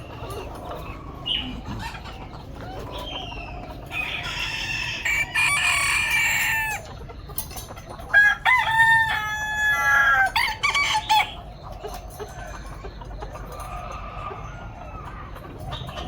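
Roosters crowing, one call about four seconds in and a longer crow around eight seconds, with quieter chicken clucking around them.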